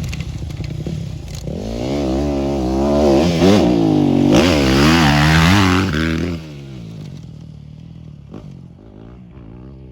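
Motorcycle engine revving up and down under throttle, close by. About six seconds in the sound drops off sharply and carries on much quieter and steadier.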